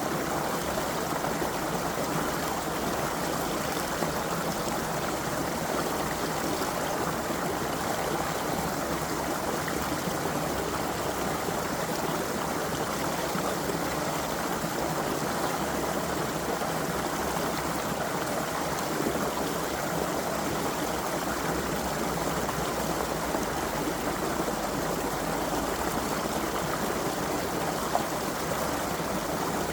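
Water of a small creek flowing and babbling steadily, with no breaks or changes.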